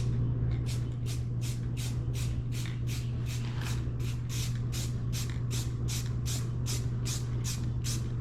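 Spray paint being applied to a repaired cast-aluminium outdrive lower unit in short, evenly repeated hissing bursts, about three a second, over a steady low hum.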